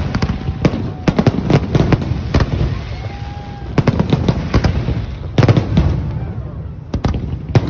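Fireworks display: a rapid, irregular barrage of bangs and crackling shell bursts, with clusters of booms about a second in, around 4 s and about 5.5 s in.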